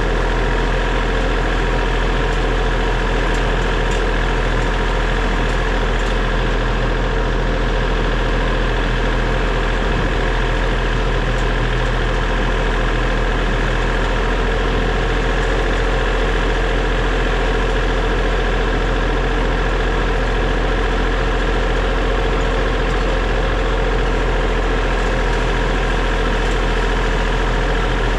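Tractor engine running steadily at a constant speed, its even drone unchanging throughout.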